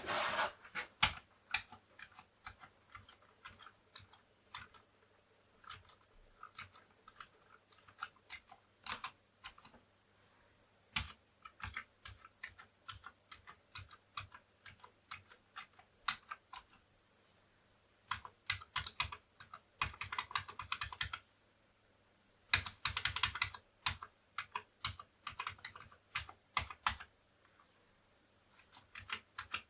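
Typing on a Commodore 64 keyboard: irregular key clicks, with two faster runs of keystrokes in the second half. The keys are being tried out after a CIA chip swap, and some of them still give wrong input.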